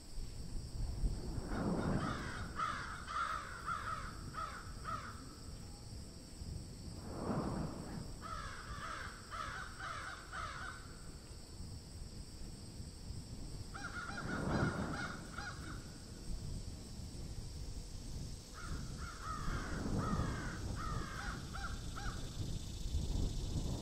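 Birds calling in bouts of rapid repeated notes, each bout two to three seconds long, about five times, over a steady high-pitched background hum.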